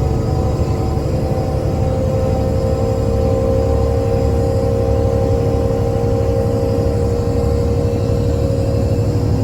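Mercedes-Benz O307 city bus underway, heard from inside the passenger cabin: a low engine rumble with a steady whine over it.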